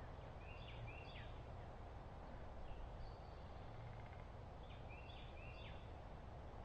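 A bird chirping faintly, two quick runs of about three short high notes a few seconds apart, over a steady low outdoor rumble.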